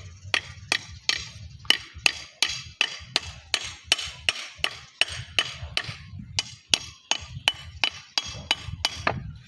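Hammer striking stone in a steady run of sharp blows, about three a second, splitting a flat stone into thinner slabs along its natural lines.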